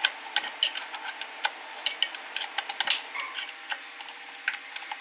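Irregular light metallic clicks and ticks of a small wrench working on a chainsaw's carburetor nuts, several a second with pauses between.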